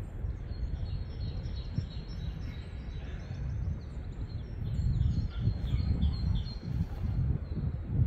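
Small birds singing, a run of quick high chirps repeated many times, over a low, uneven rumble that grows louder about five seconds in.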